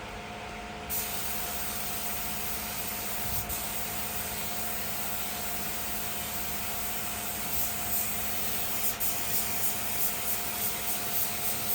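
Pneumatic spray gun hissing steadily as finish is sprayed onto the wooden pieces, starting abruptly about a second in, with a faint steady hum underneath; in the second half the hiss pulses about twice a second as the trigger is worked.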